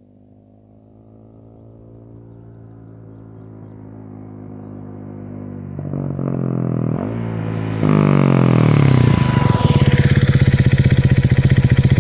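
KTM 390 Duke's single-cylinder engine through a Leo Vince aftermarket exhaust, growing steadily louder over several seconds. Its pitch dips briefly and climbs again about seven seconds in. Then it turns sharply louder about eight seconds in and stays loud and pulsing to the end.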